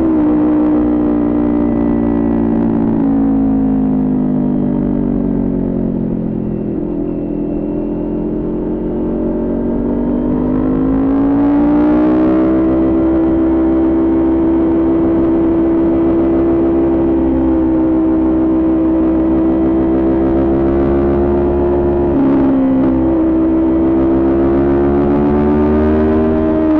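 Kawasaki Ninja 400 parallel-twin engine with a Coffman exhaust, under way. The revs fall away over the first several seconds and climb again about ten seconds in. They then hold steady, with a quick drop and recovery a little past twenty seconds, like a gear change, before rising slightly near the end.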